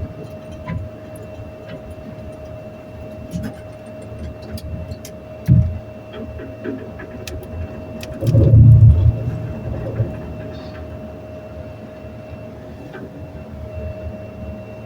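Noisy elevator in motion: a steady whine runs under a low rumble with scattered clicks and rattles. There is a sharp knock about five and a half seconds in, and a loud, heavy thump about a second long just past the middle.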